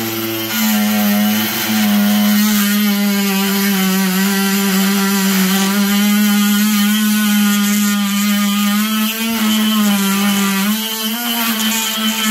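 Electric power tool running steadily as it cuts out the grout around a loose ceramic floor tile, its motor pitch wavering slightly under load.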